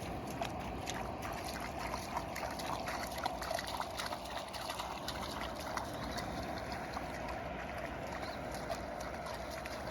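Water trickling steadily, with many small irregular clicks and splashes.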